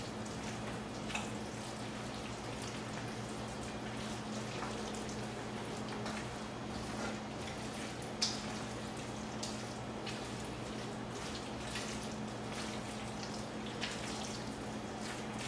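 A spoon stirring a thick, creamy chicken-and-vegetable mixture in a pan: wet squelching and dripping with scattered light clicks of the spoon against the pan, the sharpest about eight seconds in. A steady low hum runs underneath.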